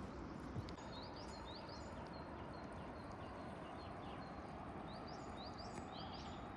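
A small songbird giving short rising chirps in two brief bursts, about a second in and again near the end, over a steady rushing noise of distant falling water.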